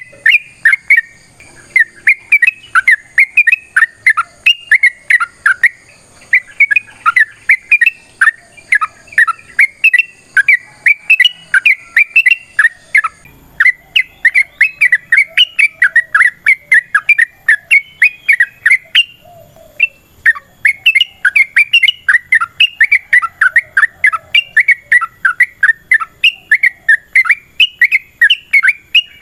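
Yellow-vented bulbul (trucukan) singing a long, fast run of short rising and falling notes, several a second, with brief pauses about 13 and 19 seconds in.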